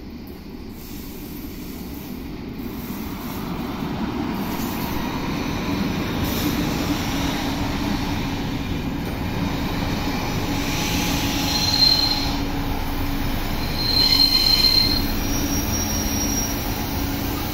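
ŽPCG series 412 electric multiple unit rolling in along the platform, its rumble growing louder as it approaches. Two high wheel squeals sound in the second half, one briefly about twelve seconds in and a longer one a couple of seconds later.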